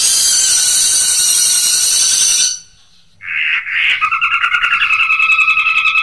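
Songbird calls from a recording made for training long-tailed shrikes (cendet): a dense, high, rapid chatter for about two and a half seconds, a short break, one brief call, then a fast pulsing trill on two pitches.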